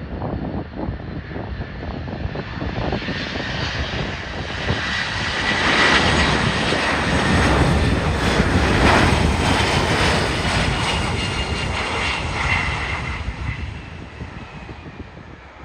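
Airplane passing close on its landing approach, its engine noise swelling to a peak about six to ten seconds in, the pitch sliding down as it goes by, then fading away.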